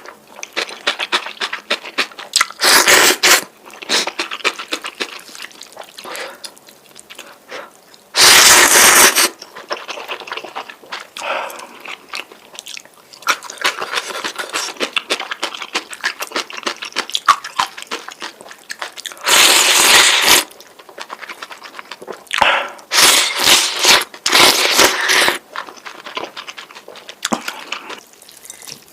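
Close-miked eating of noodles: chewing and wet mouth sounds, broken by several loud slurps about a second long each, a cluster of quick ones near the end.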